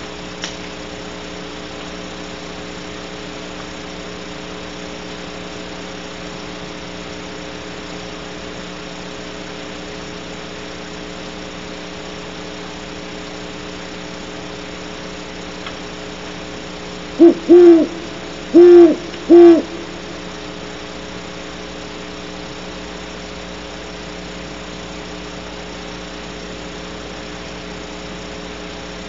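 Great horned owl hooting close by: one series of four deep hoots, two short ones close together and then two longer ones, a little past halfway through. A steady hum lies underneath throughout.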